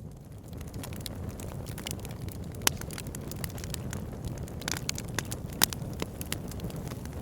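Fire burning in a fireplace, crackling with irregular sharp pops over a steady low rumble. Two pops stand out as louder, one near the middle and one a little later.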